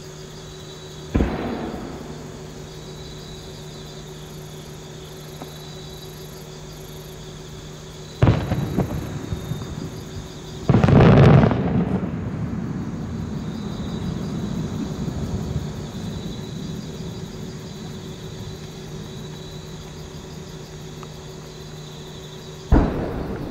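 Distant fireworks shells booming four times, each report followed by a long echoing rumble; the third, about eleven seconds in, is the loudest and lasts about a second. Insects chirp steadily underneath.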